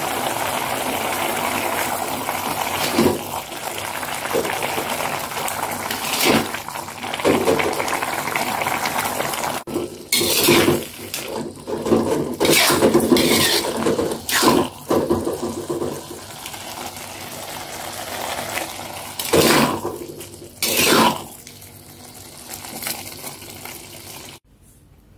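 Chili paste frying in oil in a pan with a steady sizzle, while a metal spatula scrapes and clanks against the pan as it is stirred, most busily through the middle. The sizzle dies down over the last several seconds.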